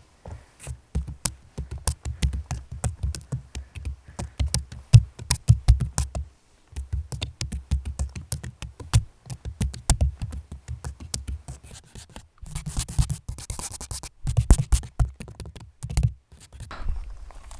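Rapid tapping and scratching close to the microphone, dense quick clicks over soft low thuds, with a brief pause about six seconds in and a harsher scratchy rustle near the end.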